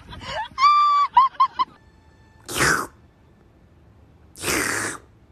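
A goose honking, a quick run of about five nasal honks, followed by two short breathy hissing sounds.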